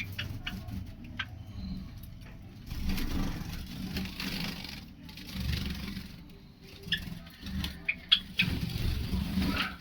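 Low, steady rumble with swells of noise, like road traffic passing. A few short, high chirps stand out about seven to eight seconds in.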